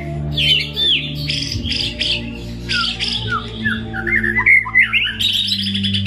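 White-rumped shama (murai batu) singing a varied, continuous song of clear whistles, swooping slurred notes and fast trills, over a steady low hum.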